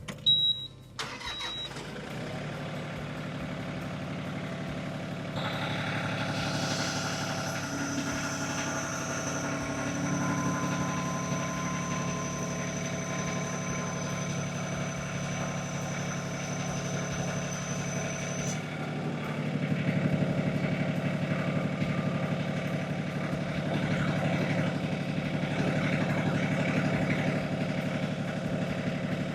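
LS MT226 tractor's diesel engine running at about 1,400 RPM while its front loader lifts a pallet of about 2,038 pounds, well over the rated capacity. The engine gets louder about five seconds in and again at about twenty seconds, with a thin steady high whine through the middle. Two short high beeps sound at the very start.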